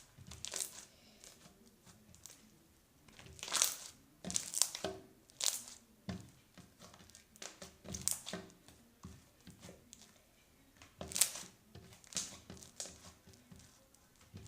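Crunchy slime packed with small beads and glitter being squeezed and worked in the hands, crackling and popping in irregular bursts.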